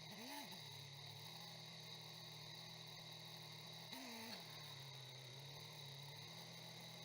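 Faint motorcycle engine idling, its throttle blipped twice, just after the start and again about four seconds in, the pitch rising briefly and dropping back to idle.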